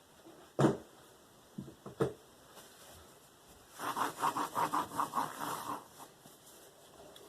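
A sharp knock and two lighter knocks, then a steel knife blade (K390) drawn in quick, even strokes across a balsa strop loaded with diamond paste, about six light scrapes a second for some two seconds.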